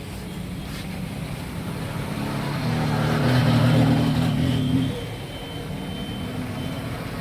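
A motor vehicle engine running, growing louder for a few seconds and then dropping off sharply about five seconds in.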